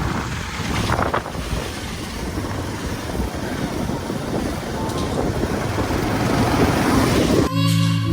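Wind rushing over a riding motorcycle's microphone, with the bike's engine running underneath. The sound cuts abruptly to music near the end.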